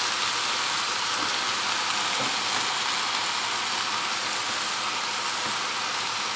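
Steady sizzling of onions frying in oil in a pot, under handfuls of fresh chopped spinach being piled on and pressed down, with some rustling of the leaves.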